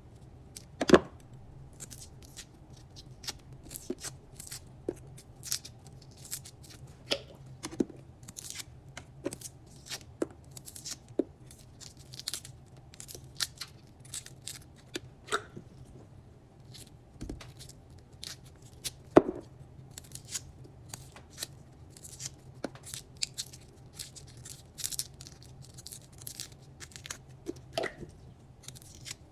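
Garlic being handled and peeled: dry papery skin crackling and tearing, with irregular sharp clicks and cuts, the loudest about a second in and again about 19 seconds in. A steady low hum sits underneath.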